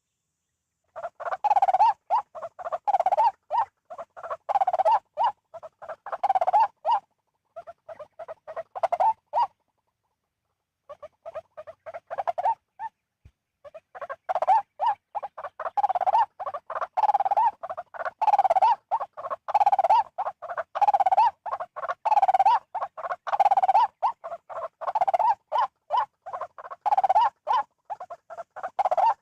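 White-breasted waterhen calls, the harsh 'ruak-ruak' croaking repeated over and over in a steady rhythm, with two short breaks about a third of the way through.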